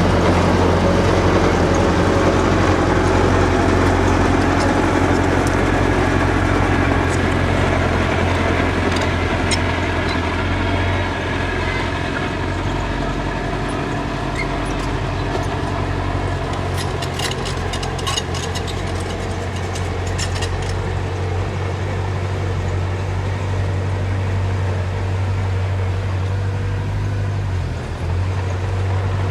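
Diesel engine of heavy earthmoving equipment running steadily. Its low drone eases off about eleven seconds in and builds again after twenty. In between come several seconds of sharp metallic clanks and squeaks.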